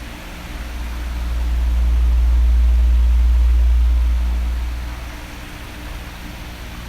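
Electric fan blowing steadily, a constant airy hiss. A low rumble swells up about a second in, peaks in the middle and fades away again a couple of seconds later.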